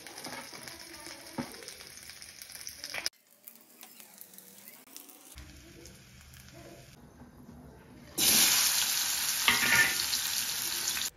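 Food sizzling as it fries in a pan, with stirring. The sizzle cuts off about three seconds in, stays low for several seconds, then comes back louder about eight seconds in and stops abruptly.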